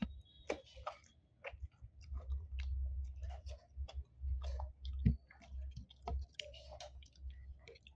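Close-miked mouth sounds of eating sticky rice by hand: soft chewing and wet lip smacks, with many short clicks scattered throughout.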